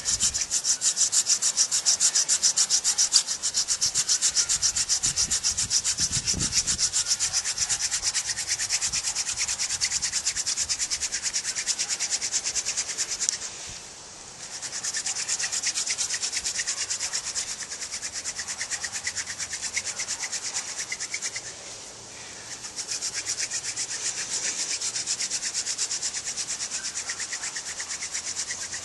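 Hand drill fire-making: a staghorn sumac spindle spun back and forth between the palms, its tip grinding in a trumpet creeper hearth board with a rapid, even rubbing. It goes in three long bouts, with short breaks at about 14 and 22 seconds.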